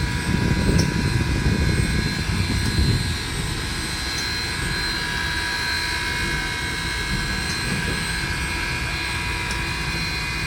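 Railroad turntable turning a locomotive under its 25 horsepower electric motor: a steady mechanical hum with a constant high whine over a low rumble, the rumble easing off about three seconds in.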